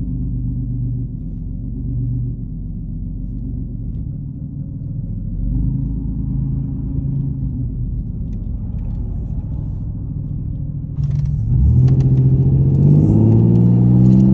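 1989 Chevy Celebrity's 2.8-litre V6 engine and exhaust running under way, steady at first, then getting louder about eleven seconds in and rising in pitch as the car accelerates near the end. The exhaust is loud enough that the owner wants the car taken to a muffler shop to quiet it down.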